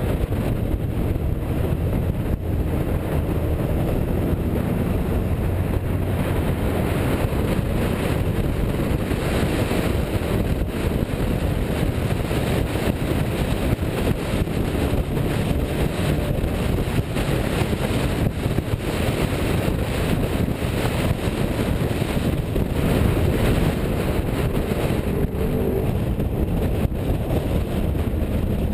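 A car driving at a steady pace, engine running with road and wind noise and no break or change.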